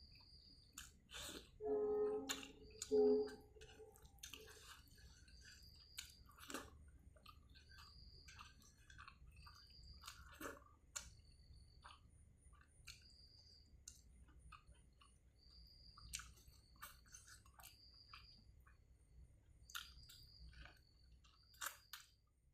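Close-up chewing and mouth sounds of someone eating pork and rice: wet smacks and small clicks scattered throughout. About two seconds in comes a short pitched hum in two parts, the loudest sound.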